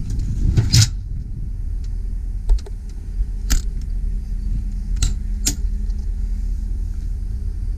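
Steady low rumble of the truck's 8.1-litre V8 idling, with a few sharp metallic clicks and clanks, one near the start, one in the middle and two close together a little later, from the utility body's compartment door and pull-out shelf being handled.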